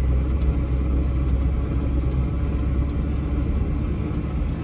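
Old square-body dump truck being driven, heard from inside the cab: a steady low engine rumble with road noise.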